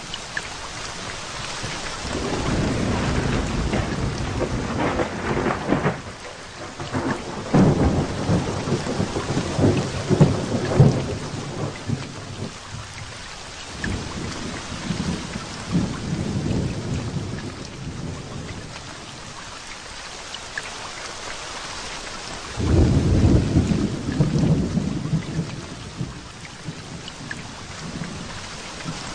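Heavy rain falling steadily with thunder rumbling over it: long rolls swell up about two seconds in, again from about seven to eleven seconds with sharper cracks, and once more near the end.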